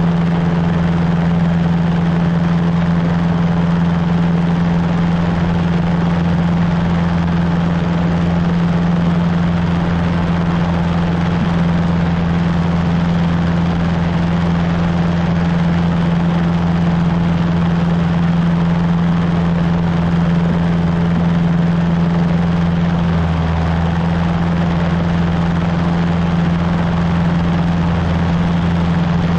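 Cessna 150's four-cylinder Continental O-200 engine and propeller droning at a steady, unchanging pitch.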